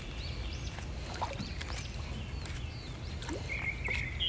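Small birds chirping in short, repeated calls, with a longer call about three and a half seconds in, over a steady low rumble.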